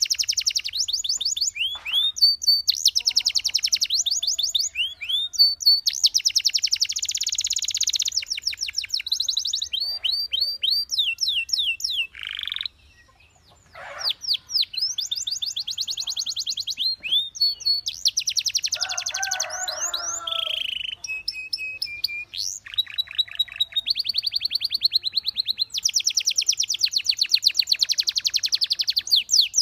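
A canary singing a long, loud song of rapid rolling trills and fast runs of repeated high sweeping notes, with a short pause about halfway through.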